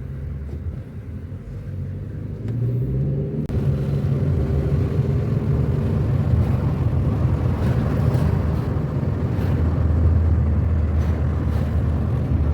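Car driving: engine and road rumble, with the engine note rising about three seconds in and then running louder and steady.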